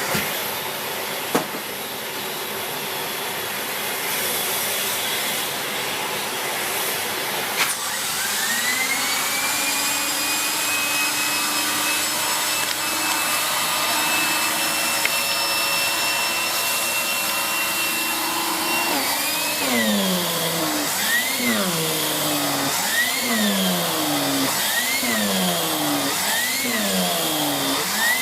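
Miele S6 Cat and Dog cylinder vacuum cleaner (2000 W motor) running. A click comes about eight seconds in; then a whine rises and holds steady. From about two-thirds of the way through, the whine's pitch swoops up and down about every second and a half.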